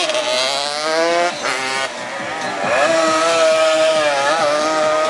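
Racing motorcycles in the 200cc class running at high revs, their engine pitch climbing during the first second, dipping, then holding high with brief drops as the riders shift and pass.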